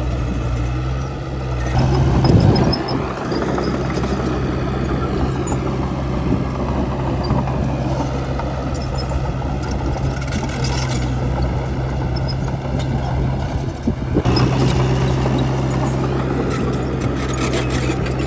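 Crawler bulldozer's diesel engine running under load, with a steady low drone. It swells louder about two seconds in and again near the end, with scattered higher-pitched rattles over it.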